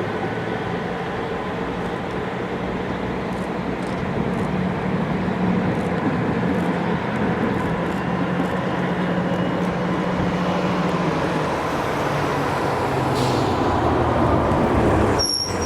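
A vehicle engine running steadily with a low hum, growing somewhat louder toward the end and cutting off abruptly just before the end.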